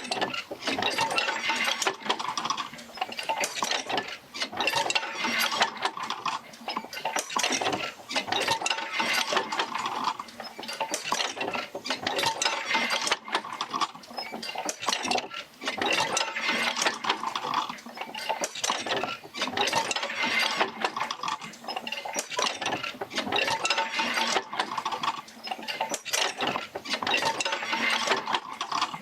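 An oil-field field wheel rocking back and forth as it drives jerker lines to the pumps, with dense metallic clinking and creaking. The clatter swells and fades in a slow repeating cycle every few seconds, one swell per stroke of the linkage.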